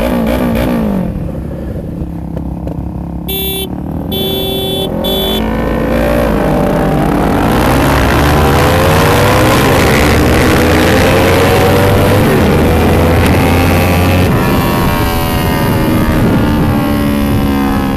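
Kawasaki Ninja 300's parallel-twin engine accelerating through the gears from a standstill, its note rising and dropping back with each shift, under heavy wind rush on the helmet-mounted camera's microphone. Three short beeps sound about three and a half seconds in.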